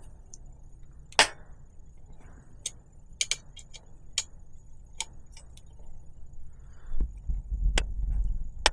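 Scattered sharp metallic clicks and ticks from a wrench on a rivnut setting tool as its bolt is turned to compress a rivnut into a bicycle frame. A low handling rumble comes in near the end.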